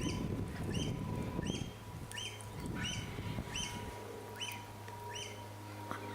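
A bird calling one short chirp over and over, evenly, about three every two seconds, with a low rustling noise under the first half.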